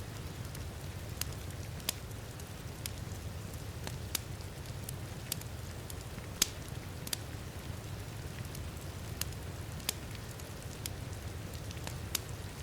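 Wood fire crackling in a fireplace, with sharp pops at irregular intervals over a steady low rumble, blended with a steady patter of heavy rain.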